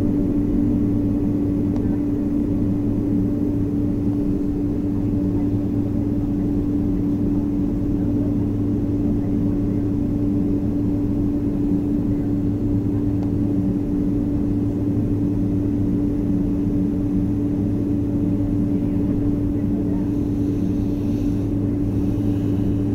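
Steady drone of a jet airliner with a constant low hum tone, even in level throughout.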